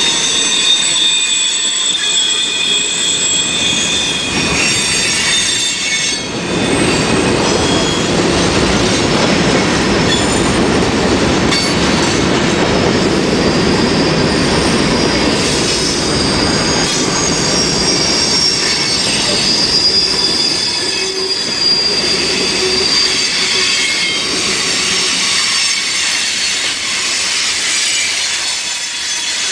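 Railroad cars rolling past with wheels squealing against the rails, several high squeals held and shifting in pitch. A heavier rolling rumble joins about six seconds in.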